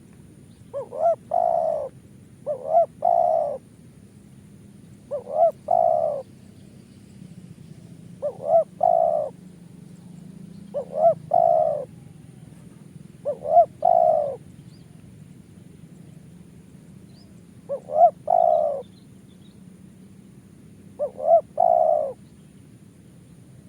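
Spotted dove (tekukur) cooing: eight repeated phrases, each two quick short notes followed by a longer coo, one every two to four seconds.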